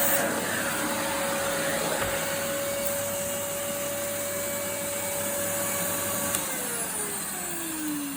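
Numatic Henry vacuum cleaner's motor running with a steady whine and rush of air, then switched off about six seconds in and winding down, the whine falling in pitch. The motor runs smoothly, its bearings sounding brand new with no grumble.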